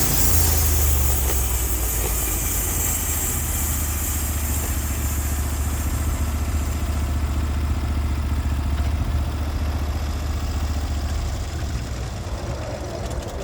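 Sawmill engine running steadily, with a high hiss that fades away over the first few seconds. The engine sound eases down near the end.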